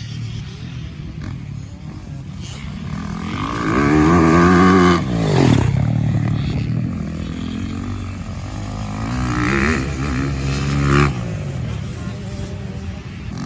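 Dirt bikes riding past on a motocross track, engines revving up and down through the gears. One passes loudly about five seconds in, with its pitch dropping as it goes by, and another revs up near the ten-second mark and cuts off suddenly.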